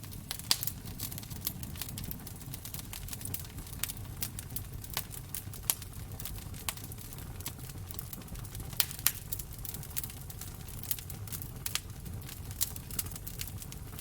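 Wood fire burning in a fireplace: irregular sharp pops and crackles, a few louder snaps among them, over a steady low rumble of the flames.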